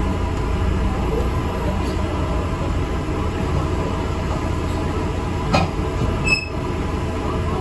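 ADL Enviro400 MMC double-decker bus heard from inside while under way: a steady low drone of engine and road noise. A sharp click comes about five and a half seconds in, followed shortly by a brief high-pitched tone.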